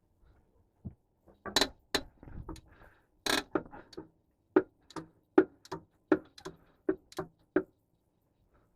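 A run of sharp knocks and clicks, irregular at first, then a steady series of about three a second in the second half, stopping near the end.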